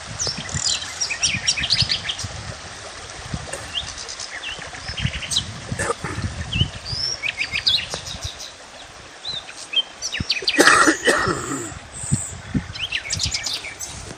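Several small songbirds chirping and trilling in short repeated phrases. About ten seconds in, a louder and lower animal call lasts roughly a second. Low rumbles run underneath.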